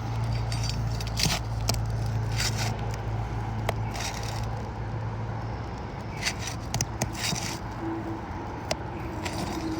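Asphalt roof shingles being worked loose: a string of irregular scrapes and crackles as the sealed tabs are broken and the nails pulled, over a steady low hum.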